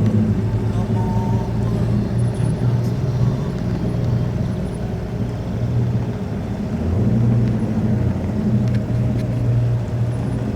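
Corvette V8 engine running steadily, a low pitched rumble that shifts slightly in pitch about seven seconds in.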